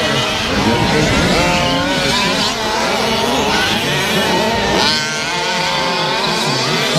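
Several fifth-scale gas-powered RC trucks racing, their small two-stroke engines revving up and down in overlapping whines as they accelerate and brake around the track.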